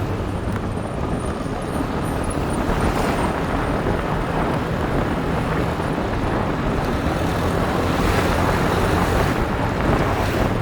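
Motorbike engine running steadily while riding, under a constant rush of wind noise.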